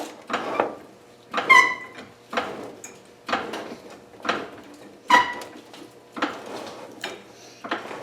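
Floor jack being pumped to raise a car: a stroke about once a second, some with a squeak and others a dull clunk.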